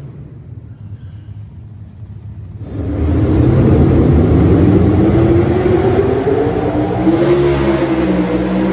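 Small-block V8 pulling-truck engine running low and quieter for the first few seconds. Then, nearly three seconds in, it revs up hard with its pitch climbing and holds at high revs under load.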